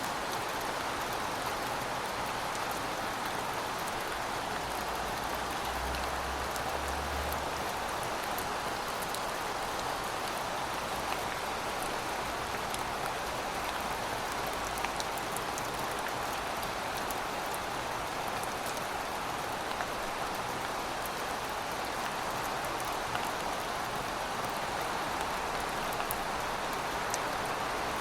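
Steady rainfall: an even hiss of rain with scattered individual drops ticking on surfaces. A faint low hum comes in briefly around five to eight seconds in.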